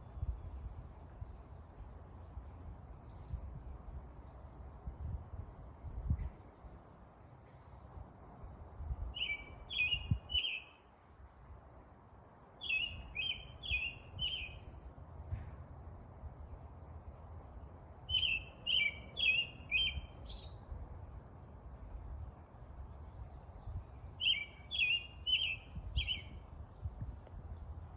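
Songbirds in the open: one bird repeats a short phrase of three or four notes about every five or six seconds, over a steady run of short, very high chips, with a low rumble underneath.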